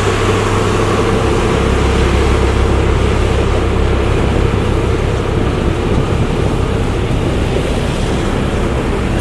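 Heavy vehicle engines running steadily: a continuous low rumble with a held hum above it.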